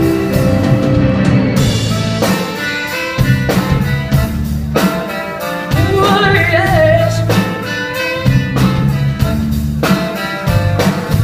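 Live band performance of a rock/soul song with drum kit, bass and guitar, the drums keeping a steady beat and melodic lines sliding above.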